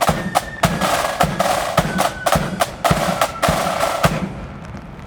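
Marching flute band's drum corps playing snare drum rolls over bass drum beats about every half second, stopping suddenly about four seconds in. After that, rain patters faintly.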